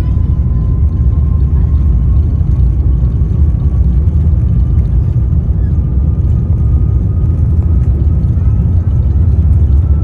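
Airbus A350-900's Rolls-Royce Trent XWB jet engines at take-off power, heard from inside the economy cabin: a loud, steady low rumble with a faint whine slowly rising in pitch.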